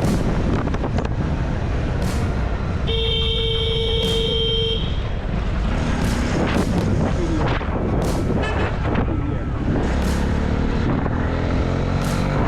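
Steady road and traffic noise, with a vehicle horn sounding once, one held note of about two seconds, about three seconds in.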